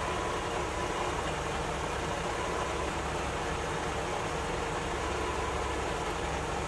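Car engine idling steadily: a constant low hum with an even hiss over it.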